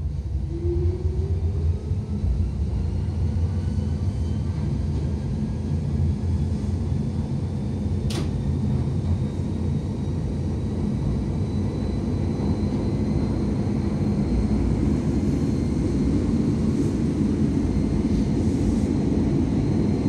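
Running noise inside a Nagano Electric Railway 3500-series train car: a steady low rumble of wheels and motors, with a faint whine rising in pitch over the first several seconds and a single sharp click about eight seconds in.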